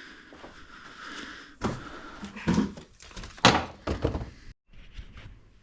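A run of thunks and knocks from objects being handled and set down while clearing out the room, the loudest about three and a half seconds in. The sound drops out completely for a moment near the end.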